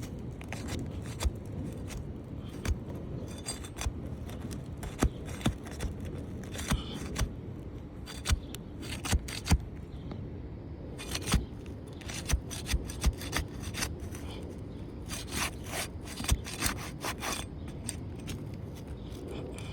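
A tool being worked along the sealed edge of an asphalt roof shingle to break its seal: irregular scraping with sharp clicks and crackles as the sealant lets go and the brittle shingle tears.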